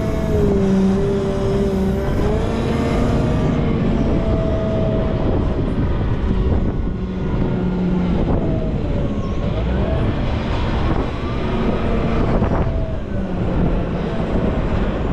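Volvo L90F wheel loader's diesel engine running under load, its pitch rising and falling every few seconds as the revs change.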